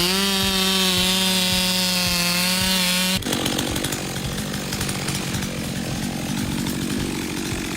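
Chainsaw engine running flat out at high revs, a steady high whine. About three seconds in it gives way abruptly to a harsh, noisy grinding.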